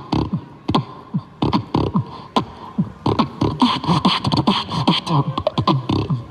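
Vocal beatboxing: a quick rhythmic stream of mouth-made drum sounds, sparser at first and busier and louder from about halfway through.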